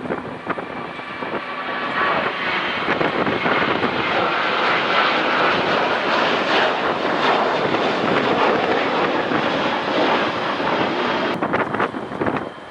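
Wide-body jet airliner's engines running loud as it passes, building over the first two seconds, holding steady, then falling away sharply near the end.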